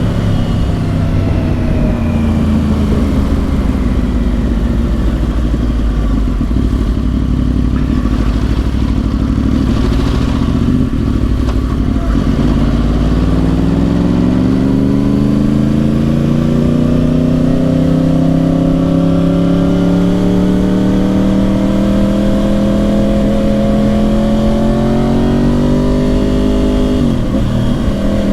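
2010 Yamaha R1's crossplane inline-four through Yoshimura exhausts, heard while riding. The engine note falls for about the first twelve seconds as the bike slows, then climbs in a long steady rise under acceleration, with a brief dip near the end at a gear change.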